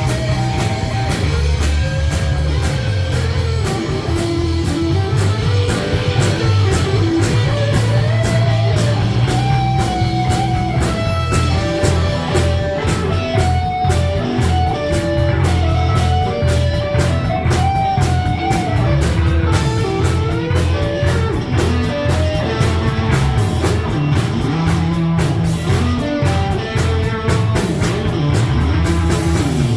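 Rock music: an electric guitar plays a bending lead melody over bass and a drum kit keeping a steady beat on the cymbals.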